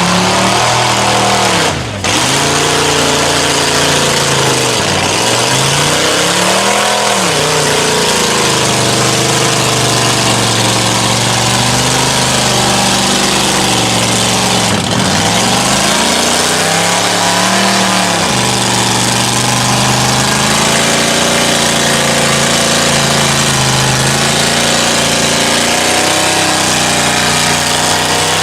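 Mud truck's big engine running hard, revved up and down: its pitch drops and climbs again several times, with steady engine drone between.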